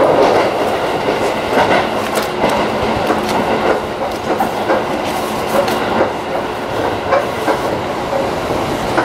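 Seibu 3000 series electric train running along the line, heard from inside the front cab: a steady running rumble with the wheels clicking over rail joints at irregular intervals.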